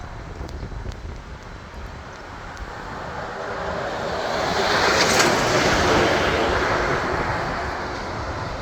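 A vehicle passing by: its noise swells up, peaks about halfway through, then fades away, over steady wind rumble on the microphone.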